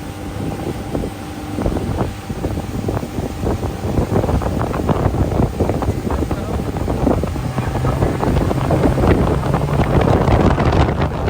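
Wind buffeting the microphone over a loud, steady rushing noise, growing stronger towards the end.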